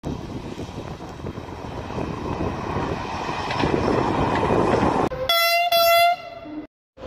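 A passing train's rumble grows louder over about five seconds. Then a train horn sounds two short blasts on one steady pitch and cuts off abruptly.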